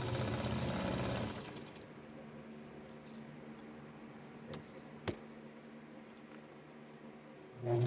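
Vintage Atlas Deluxe sewing machine stitching, then stopping after about a second. During the pause there are a soft knock and a sharp click. The machine starts stitching again near the end.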